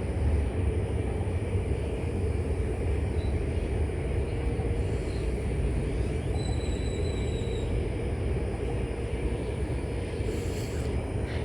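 Steady low outdoor rumble, with no shots fired, and a faint high thin tone briefly just past the middle.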